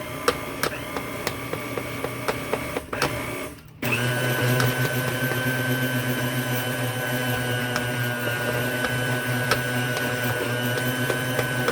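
Countertop blender puréeing butternut squash soup, its motor running with a regular clicking at first, then dropping briefly and stepping up to a steadier, louder hum about four seconds in.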